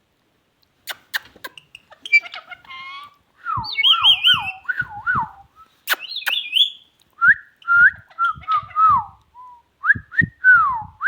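Parrot whistling: a run of short swooping whistles that rise and fall in pitch, repeated in phrases, with a few sharp clicks near the start.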